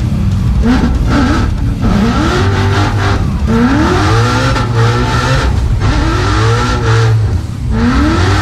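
Whipple-supercharged Coyote V8 of a 2017 Shelby Super Snake widebody Mustang drift car revving hard over and over, its pitch climbing in sweeps every second or two.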